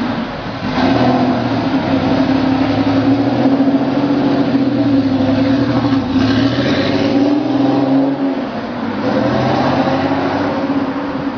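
Porsche 964 RS's air-cooled flat-six engine running steadily, its pitch rising and falling slightly a few times.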